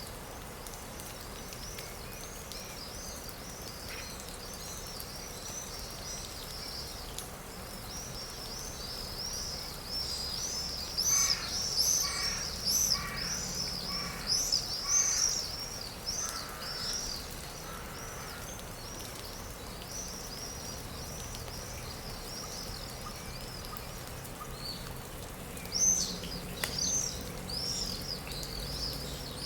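Forest birdsong: many small birds chirping and twittering without a break, busiest in the middle and again near the end. Partway through, a lower bird call repeats about five times, roughly once a second.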